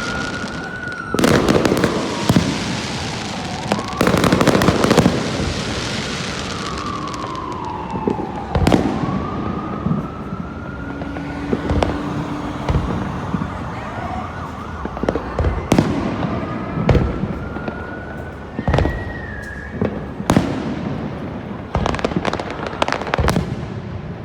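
Aerial fireworks bursting overhead: a series of sharp booms at uneven intervals, with crackling after the bursts. Between them, a whistle-like tone slowly rises and falls in pitch.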